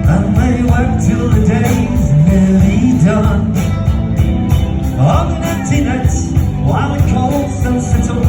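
Live folk-rock band playing, with a gliding melody line over a heavy, steady low end.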